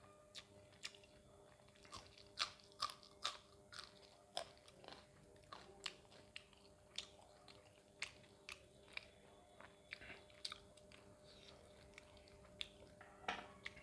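Close-miked chewing and mouth sounds of someone eating mutton curry with roti: sharp wet clicks and smacks at an irregular pace, roughly one or two a second.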